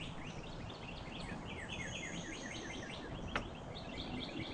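A songbird singing a fast, steady run of repeated downward-sliding notes, several a second. A single sharp click comes a little over three seconds in.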